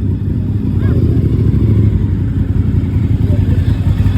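Motorcycle engine idling nearby: a steady low rumble that grows a little louder about a second in.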